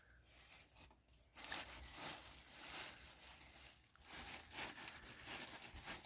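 Rustling, tearing noise in two stretches: one starting about a second and a half in, the other around four seconds in.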